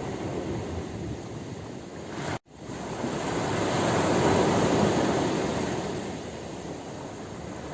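Ocean surf: a steady wash of waves, with one wave swelling up and breaking about halfway through, then washing back. The sound cuts out for an instant about two and a half seconds in.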